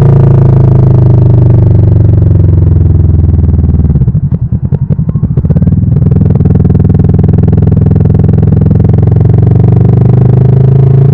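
Kawasaki Vulcan S's parallel-twin engine running: the engine note falls at first, drops to a low, pulsing idle about four seconds in, then picks up again and holds steady.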